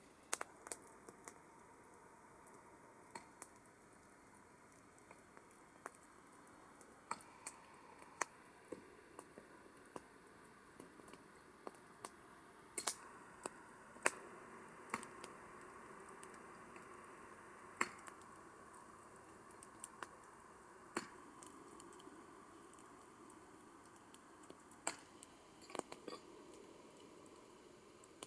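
Campfire crackling: irregular sharp pops and snaps of burning wood over a faint steady hiss.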